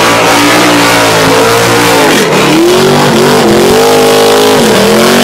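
Ford XB Falcon coupe's V8 burnout engine running loud at high revs while spinning its tyres. The revs drop sharply about two seconds in and climb back, then dip again near the end.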